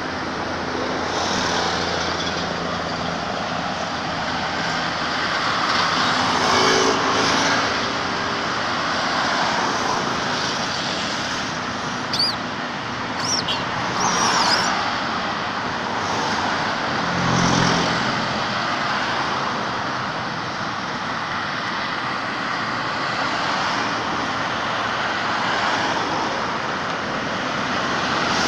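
Road traffic running steadily, with vehicles passing by and swelling louder a couple of times. A few short high squeaks come around the middle.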